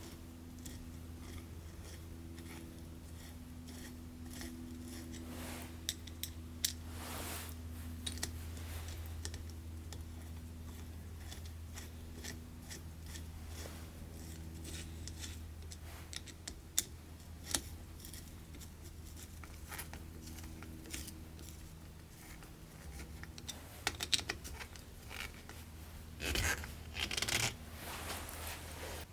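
Workshop handling sounds: scattered small clicks and scrapes over a steady low hum, with two short noisy bursts close together near the end.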